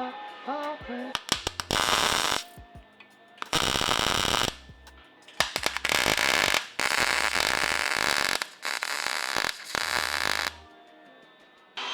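Five bursts of harsh hissing noise from electric arc metalworking on steel exhaust pipe, each one to two seconds long, starting and stopping abruptly.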